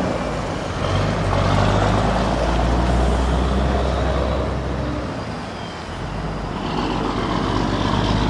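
Toy vehicles running in a pulling race: continuous motor and wheel noise over a steady low hum, easing slightly about two-thirds of the way through.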